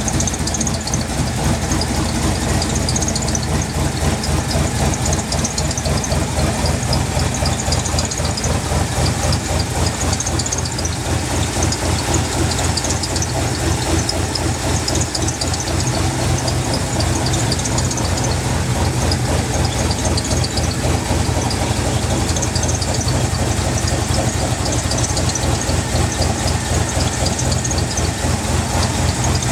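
Freshly built engine of a 1964 Chevrolet pickup idling steadily while warming up from a cold start, with an even, fast pulsing beat.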